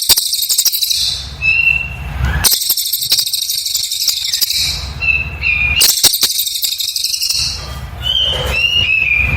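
A cililin singing: dense, very high rapid bursts of notes, each about one and a half to two seconds long, about every three seconds, with short clear whistled notes in the pauses between them. A steady low hum fills the gaps.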